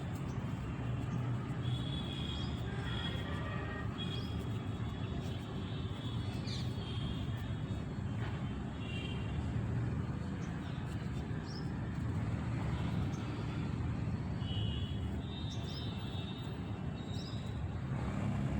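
Outdoor ambience: a steady low rumble like distant traffic, with short high chirps scattered through it.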